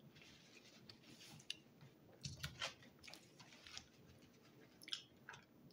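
Faint chewing of a mouthful of pizza: soft, irregular wet mouth clicks and smacks, a few louder ones around the middle and near the end.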